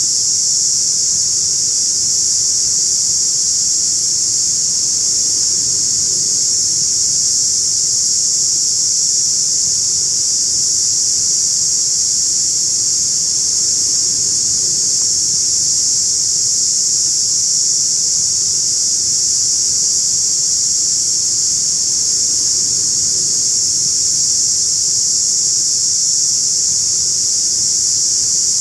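Loud, steady insect chorus: a dense, high-pitched drone that never breaks, over a faint low rumble.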